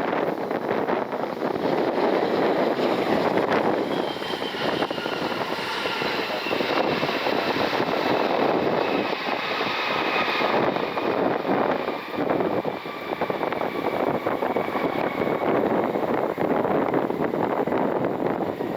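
Turbofan engines of a CRJ-900 regional jet as it passes, with a dense rush of engine noise and a high fan whine that slowly falls in pitch. Wind buffets the microphone.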